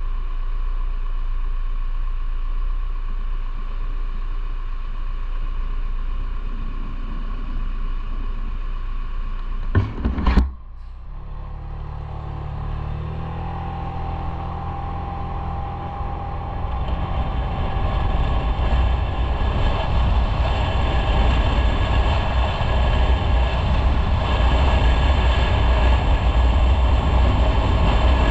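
Motorcycle running on the road, engine hum with wind and road noise. About a third of the way in there is a brief loud double knock, after which the engine and wind noise build up, getting louder as the bike gathers speed.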